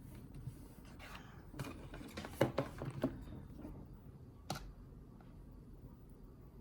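Ceiling fan running with a low, steady hum, over which come a few sharp clicks. The loudest clicks come about two and a half and four and a half seconds in.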